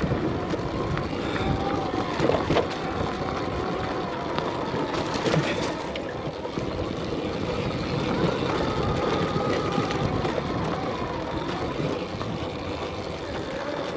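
Electric dirt bike on a rocky dirt trail: a faint motor whine that wavers in pitch with the throttle, over the steady rumble of knobby tyres on dirt and rock, with a few knocks from the bike.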